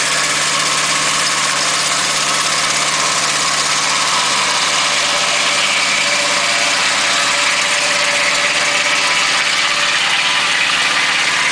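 Volkswagen engine running steadily, driving a portable dimensional sawmill's blades as they cut through a pine log.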